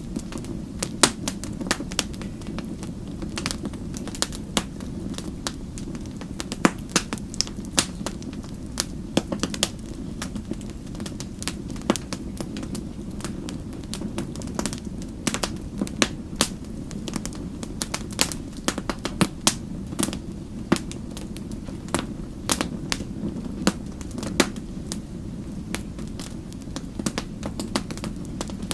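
Wood fire crackling: a steady low rumble of burning with sharp, irregular pops and snaps several times a second.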